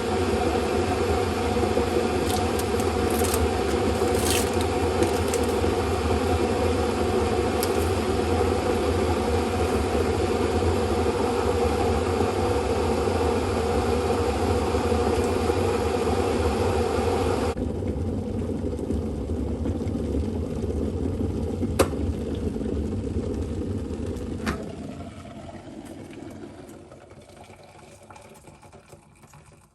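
A motor running steadily. Its higher part drops away about two-thirds of the way through, and it fades out near the end.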